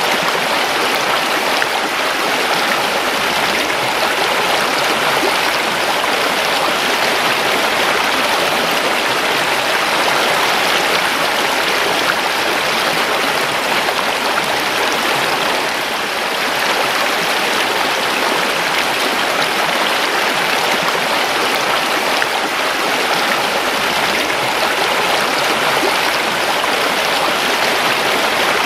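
Creek water rushing and splashing steadily over rocks, a continuous even rush.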